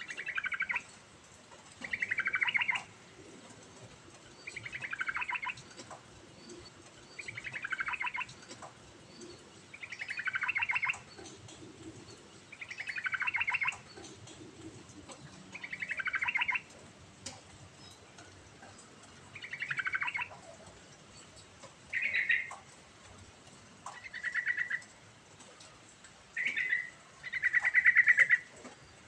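Yellow-vented bulbul (trucukan) singing: a rapid, rattling phrase repeated about every two and a half seconds, each one sliding down in pitch. Near the end the phrases turn shorter and stay on one pitch.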